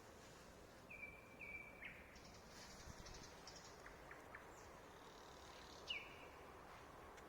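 A bird singing faintly at night, possibly a nightingale though this is not certain. It gives two short level whistles, a run of high notes and a few clicks, then a louder whistle about six seconds in.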